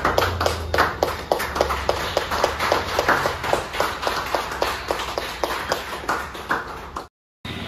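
Hands clapping in a quick, steady patter, several people at once, stopping abruptly near the end.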